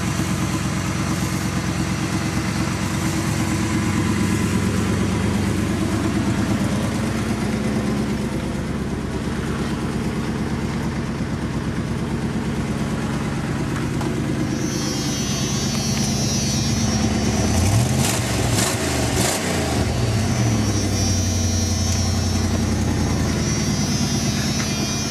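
1996 Dodge Ram 1500 pickup engine running at a steady idle. It is revved up and let back down about two-thirds of the way through, and a high-pitched whine comes in shortly before that.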